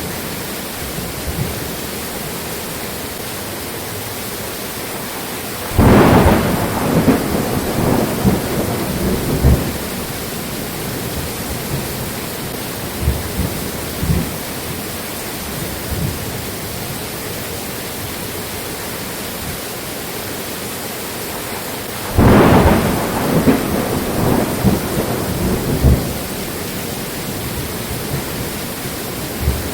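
Steady rain falling during a thunderstorm, with two thunderclaps: one about six seconds in and one about twenty-two seconds in. Each breaks sharply and rumbles and crackles away over several seconds.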